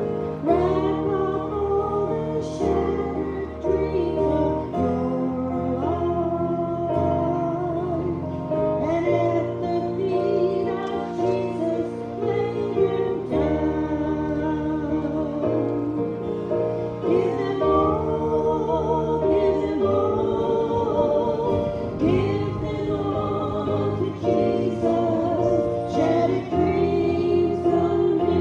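Congregation or group singing a gospel hymn with guitar accompaniment.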